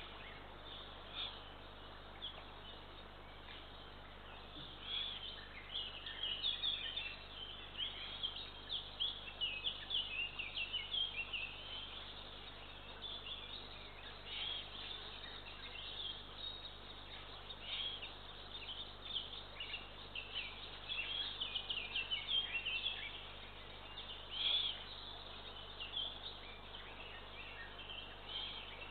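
Small songbirds singing around the nest, a dense run of short high chirps and trills, over a steady low electrical hum.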